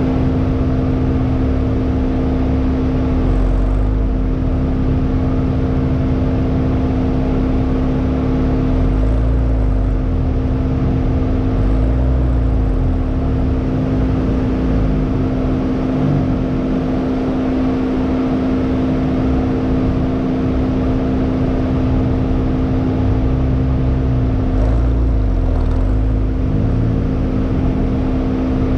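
Hyundai Elantra N's turbocharged 2.0-litre four-cylinder engine under hard driving on a race track, its revs climbing and dropping again and again through acceleration, shifts and braking. A steady rush of wind and road noise runs under it.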